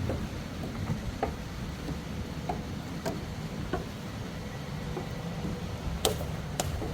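Footsteps on a mountain trail: a string of short knocks about every half second to second, with two sharper clicks near the end, over a steady low wind rumble on the microphone.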